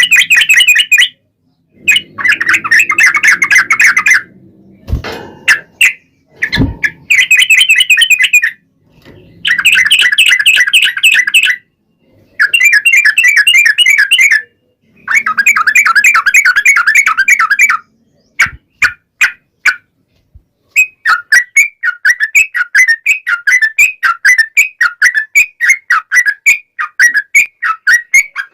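Yellow-vented bulbul (trucukan) singing long, fast chattering phrases, each lasting about two seconds, with short pauses between them. Near the end the song changes to a steady run of separate notes, several a second. Two low thumps come about five and six and a half seconds in.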